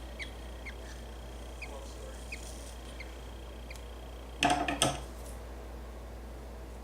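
Budgerigar chick giving short, high cheeps that thin out after the first couple of seconds, then a brief loud rustling burst about four and a half seconds in.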